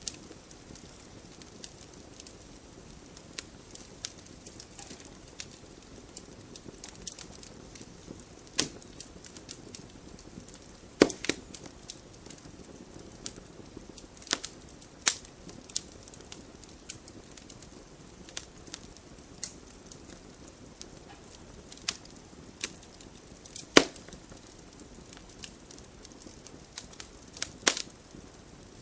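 Wood fire burning in a fireplace, crackling steadily under a low hiss, with sharp pops at irregular intervals; the loudest snaps come about 11, 15 and 24 seconds in.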